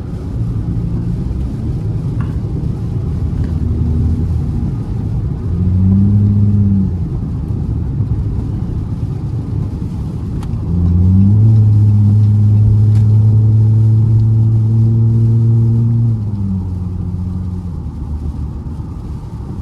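Car engine pulling under throttle while driving: the engine note rises briefly about five or six seconds in, then rises again and holds loud and steady for about five seconds before easing back, over steady road noise.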